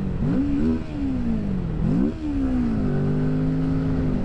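Kawasaki Z650's parallel-twin engine on the move. Its pitch rises sharply and then slides back down twice as the throttle is opened and rolled off, then holds steady near the end.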